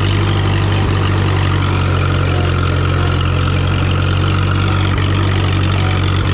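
Freshly tuned-up engine of a 1954 Minneapolis-Moline UB tractor running at a steady, even speed, with a low, constant engine note.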